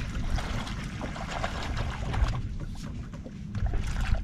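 Boat on the water while trolling: water splashing and trickling against the hull over an uneven low rumble.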